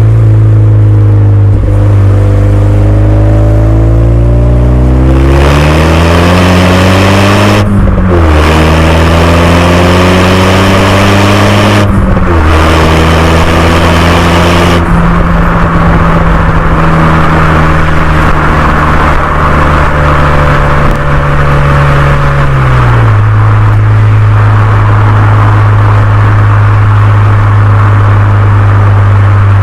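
Renault Mégane 2 RS's turbocharged 2.0-litre four-cylinder breathing through a Milltek cat-back exhaust, accelerating hard. Revs rise through two gear changes, about eight and twelve seconds in, then hold steady. They drop back to a lower steady note about twenty-three seconds in as the throttle is eased.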